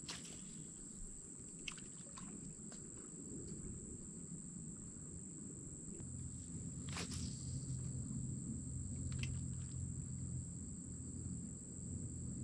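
Steady, high-pitched insect chorus of night insects, with a few faint clicks and a low hum that swells about halfway through.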